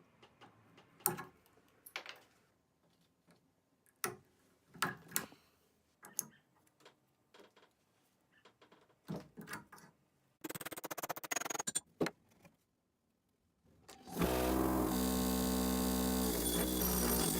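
Scattered clicks and knocks of a steel axe head and tools being handled, then a second or so of rapid clattering. About fourteen seconds in, an electric power tool starts and runs steadily and loudly.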